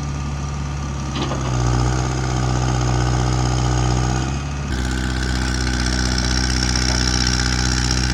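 Diesel engine of a Kubota KX161-3 mini excavator running steadily, stepping up in speed a little after a second in. Near five seconds in its sound shifts and a high whine joins it. This is the worn engine that the owner says bogs down, lacks power and burns oil.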